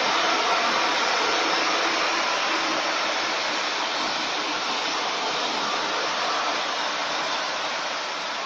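ChS7 electric locomotive pulling away with its train: a steady fan-like rushing from its ventilation blowers and running gear, slowly fading toward the end.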